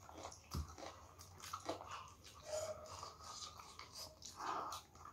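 A person chewing a mouthful of food up close, with irregular small wet clicks and smacks of the mouth. There is a soft thump about half a second in.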